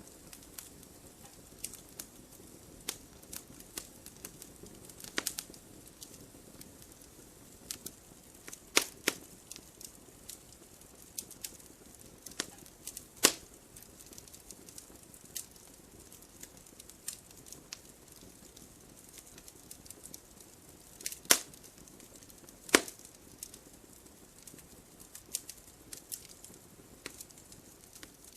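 Wood fire crackling: irregular sharp pops and snaps over a low steady hiss, with a few louder snaps about 9, 13, 21 and 23 seconds in.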